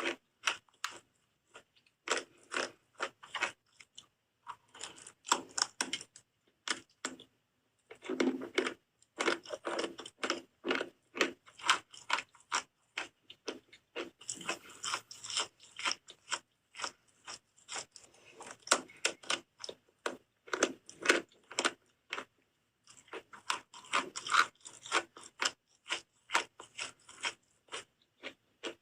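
Close-miked biting and chewing of soap: runs of short, crisp crunches in bursts, with brief pauses between them.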